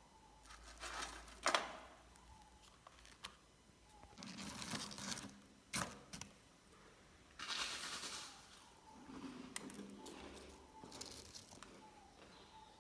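Faint handling noises: scattered sharp clicks and knocks, with a few short stretches of rustling.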